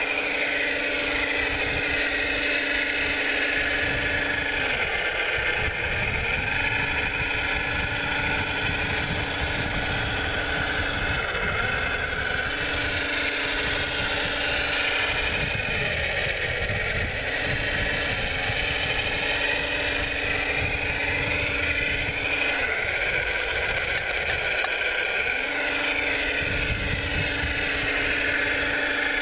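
Electric motors of radio-controlled construction models whining, their pitch dipping and rising again every five or six seconds as the machines work.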